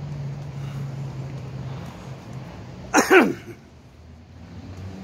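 Low steady hum of an idling vehicle engine. About three seconds in, a person makes one short vocal sound that falls in pitch.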